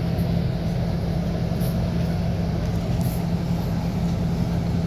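Scania K230UB city bus's five-cylinder diesel engine running at a steady speed, a constant drone heard on board, with two faint clicks from the cabin partway through.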